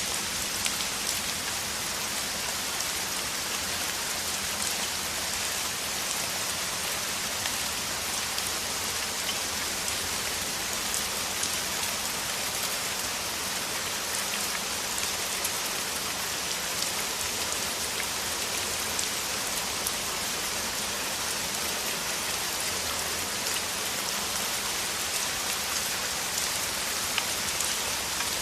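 Steady heavy rain falling, a dense hiss with many small drop ticks, even throughout.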